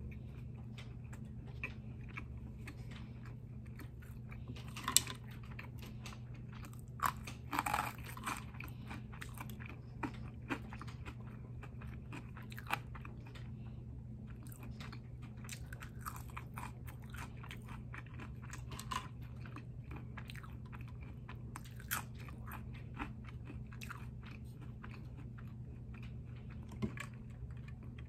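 Close-miked eating sounds: chewing a shrimp cheeseburger and crunchy curly fries, with sharp crunches and mouth clicks every second or two over a steady low hum. The loudest crunches come about five seconds in and in a cluster around seven to eight seconds in.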